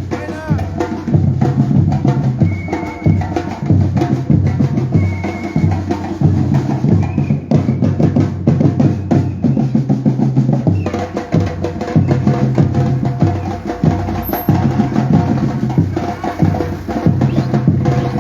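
Batucada percussion band drumming, deep bass drums keeping a steady, repeating beat under other drums and percussion.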